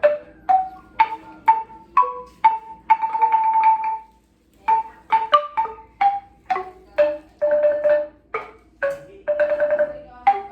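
A traditional Vietnamese Central Highlands ethnic-minority instrument played by a beginner: a halting melody of single struck, ringing notes, three times broken by a quick tremolo roll held on one note, with a brief pause after about four seconds.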